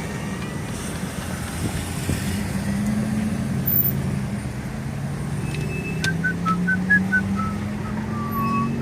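Car engine running at low speed, heard as a steady low hum from inside the cabin; about six seconds in, a person starts whistling a tune in short notes.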